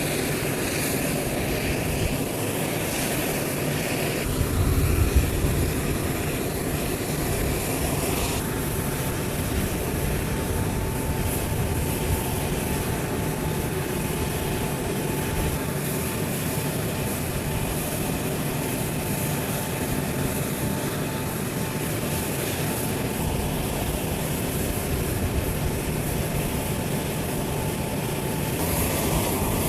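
Jet aircraft engines, those of a C-17 Globemaster III, running steadily with a continuous rush of noise. The sound changes abruptly about 4 s in, about 8 s in and near the end, and carries a thin steady whine through the middle stretch.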